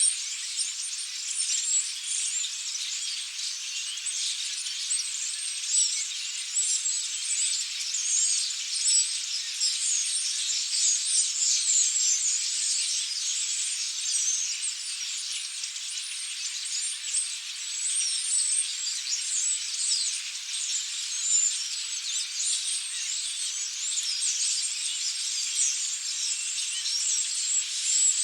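A large flock of European starlings chattering and whistling all at once: a dense, continuous, high-pitched din of overlapping calls.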